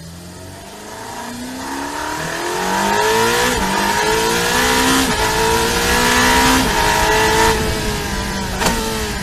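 Ferrari 849 Testarossa's twin-turbo V8 accelerating hard: the engine note builds and climbs in pitch, drops back at each upshift, and climbs again several times.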